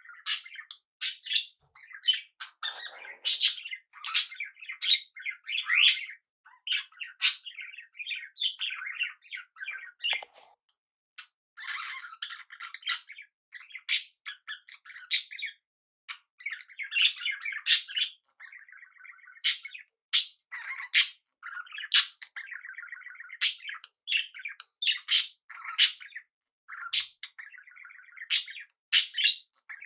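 Small pet parrots, budgies and cockatiels, chirping and chattering: a steady stream of short sharp chirps mixed with rapid buzzy warbling, with a brief lull about ten seconds in.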